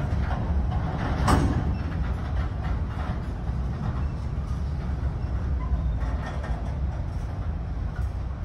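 CSX freight train's open-top hopper cars rolling past: a steady low rumble of steel wheels on the rails with faint repeated clicks, and one sharp clank about a second in.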